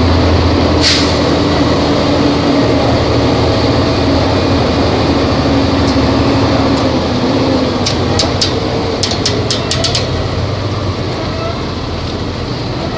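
Volvo B270F bus engine running with a steady low hum, its pitch dipping slightly at times. A quick run of sharp clicks comes about eight to ten seconds in.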